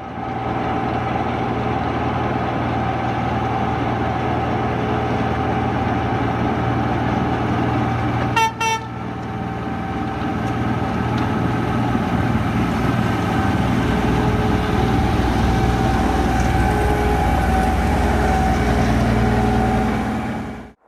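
Train engine running steadily, with a short horn toot about eight seconds in.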